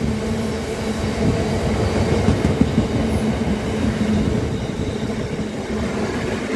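GBRF Class 66 diesel freight train passing: a continuous low rumble of the train on the track, with a steady hum.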